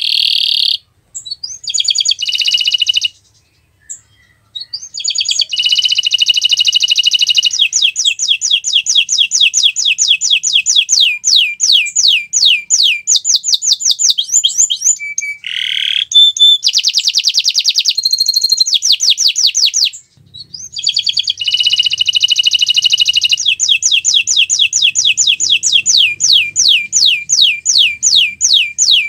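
Domestic canary singing: long phrases of fast, evenly repeated trilling notes, broken by short pauses about a second in, around four seconds in and about twenty seconds in.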